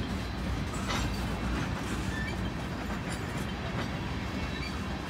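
Freight train tank cars rolling past at close range: a steady rumble of steel wheels on rail, broken by a few sharp clicks.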